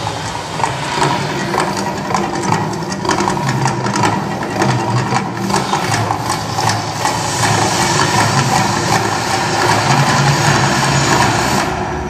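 Mirage volcano eruption show: a loud, steady low rumble with dense crackling. A hissing rush builds in the second half and cuts off shortly before the end.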